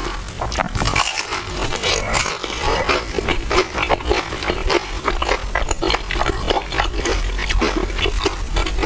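Close-miked eating sounds: chewing and slurping with a dense run of small wet mouth clicks and smacks.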